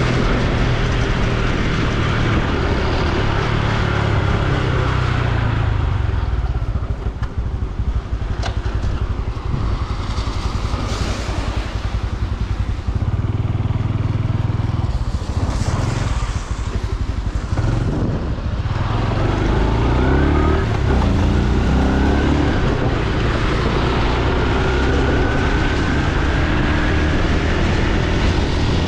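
Honda Super Cub C125's air-cooled single-cylinder engine running on the move, with wind and road noise. It eases off through the middle, then picks up again with its pitch rising in the last third.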